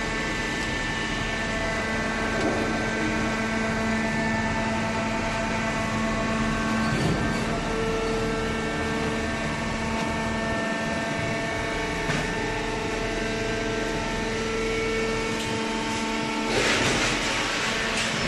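Horizontal hydraulic baler running: the steady hum of its electric motor and hydraulic pump, with several held tones that come and go. About three-quarters of the way through, a burst of hiss rises over the hum for a second or two.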